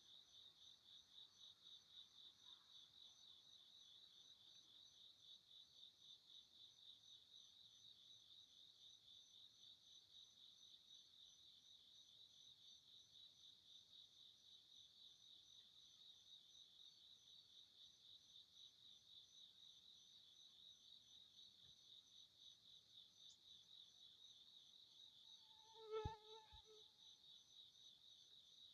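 Faint, steady chirping of crickets, a high pulsed trill repeating evenly throughout. Near the end a short, lower pitched call cuts in once, briefly louder than the crickets.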